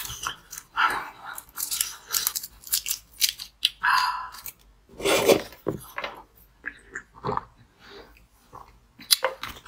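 Close-up crunchy biting and chewing of a foil-wrapped chocolate-type sweet, with crinkling of the foil wrapper as it is peeled off. The sounds come as irregular crackly clusters with quiet gaps between them.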